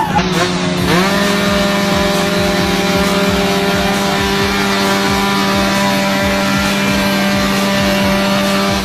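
Drag-racing motorcycle engine revving up about a second in, then held at a steady high rev.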